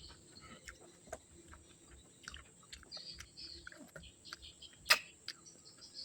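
Eating sounds: soft chewing and small wet clicks of a meal, with one sharp click about five seconds in. Insects chirp on and off in the background.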